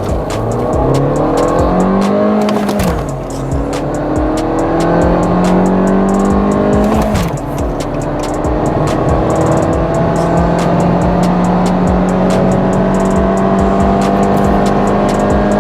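Volkswagen Golf's 1.5 TSI four-cylinder turbo petrol engine under full-throttle acceleration, its pitch rising through the gears, with upshifts about three and about seven seconds in, then a long, slow climb in the next gear.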